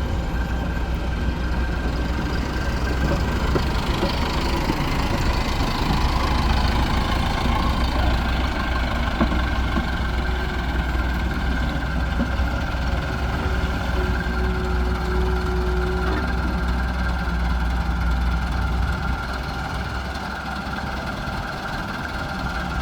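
Diesel engines running steadily: a hydraulic excavator working while it loads mud into tractor trolleys, with tractor engines idling, and a steady whine over the low rumble.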